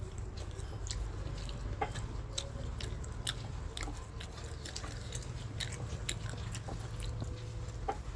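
Someone chewing and biting food close to the microphone, with irregular small mouth clicks and smacks over a steady low hum.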